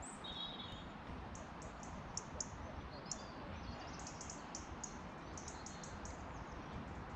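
Small songbirds singing: runs of short, very high, thin chirps in quick succession, repeated several times over a steady low background rumble.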